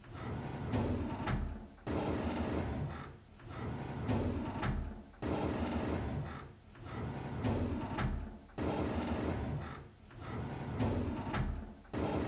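A drawer being pulled open, repeated in a loop about every three and a half seconds: each time a sudden start, a rumbling slide lasting a second or two, and a sharp click before it fades.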